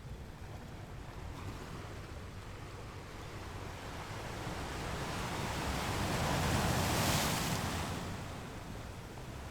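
Sea surf on a beach: a steady low rumble of water, with one wave building over a few seconds and breaking about seven seconds in, then fading.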